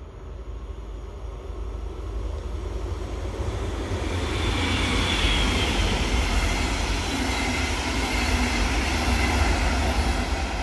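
A train passing: a rumble that builds over the first few seconds into a loud, sustained pass, with a faint high whine over it, easing near the end.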